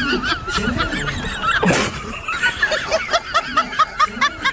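High-pitched laughter in a quick run of short pulses, settling into about four a second in the second half, with one brief noisy burst a little under two seconds in.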